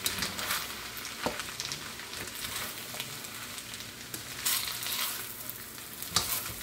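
Fried rice sizzling steadily in a hot pan, with a utensil scraping and knocking against the pan a few times as the rice is stirred and broken up.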